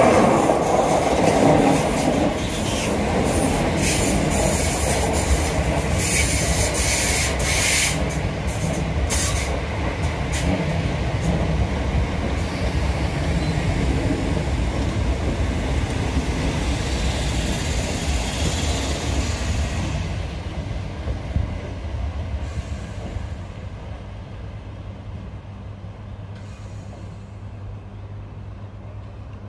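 Electric multiple-unit passenger train passing close at speed: wheels on the rails with a run of rapid clicks and clatter, then the rumble dies away as the train recedes, about twenty seconds in.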